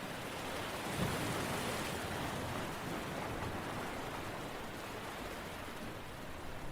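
Steady rushing water noise from an ambient relaxation recording. It swells with a low rumble about a second in, then settles back to an even hiss.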